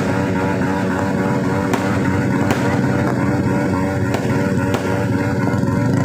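A loud, steady drone of several held tones, with about five sharp firework pops scattered through it.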